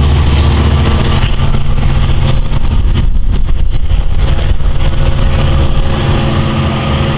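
DM30AC dual-mode diesel locomotive engine running loudly, a steady deep drone that turns rougher and noisier about two to three seconds in.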